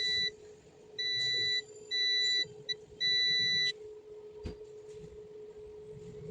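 An electronic beeper sounds five times at uneven lengths, each one a single high steady tone, over a steady low hum; a single click comes about four and a half seconds in.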